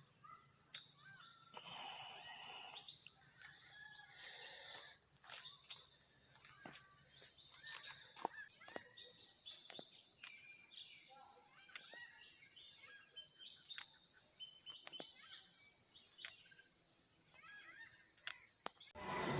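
Steady outdoor insect chorus, several high, even trilling tones layered together, with scattered short bird chirps and calls over it. The highest trill stops about halfway through, and the whole ambience cuts off just before the end.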